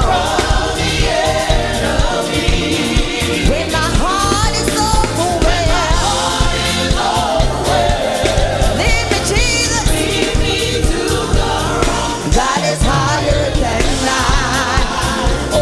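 Live gospel praise team singing with a band: a lead voice with vibrato over backing singers, with bass and drums keeping a steady beat.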